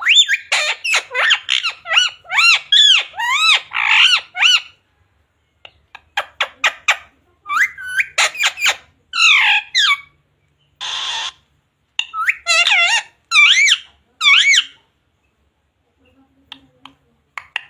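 Pet Indian ringneck parakeet squawking and chattering in quick runs of short, pitch-bending calls, broken by short pauses. About eleven seconds in comes one harsh, hissing screech lasting about a second.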